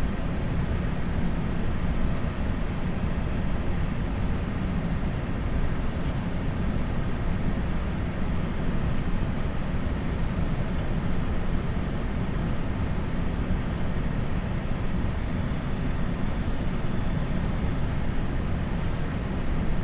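Boeing 747-400 flight deck on short final: a steady rushing noise of airflow and engines, heaviest in the low end, with no change through the approach.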